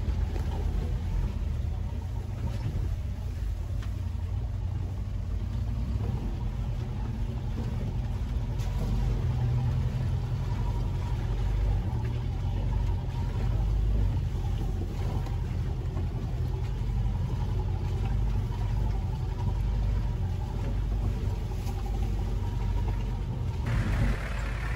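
Land Rover 4x4's engine running with a steady deep rumble as it drives an off-road trail.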